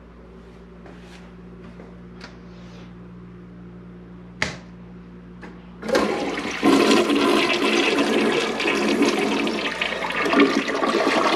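Toilet flushing: after a short sharp sound about four and a half seconds in, water rushes loudly out of the tank from about six seconds in and keeps running steadily.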